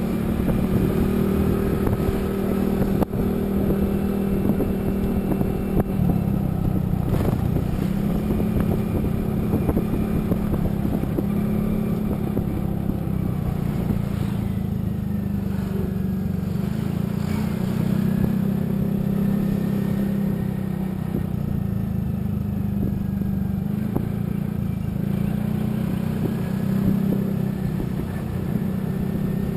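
Motor vehicle engine running steadily at a constant pace while travelling along a road.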